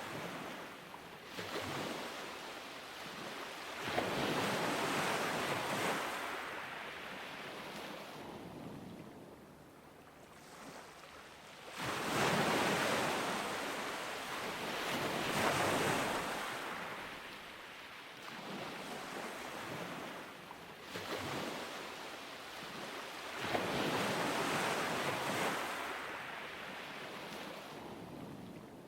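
Ocean waves breaking on a beach, the surf rising and falling in long noisy surges every several seconds; the biggest washes come about four, twelve and twenty-four seconds in.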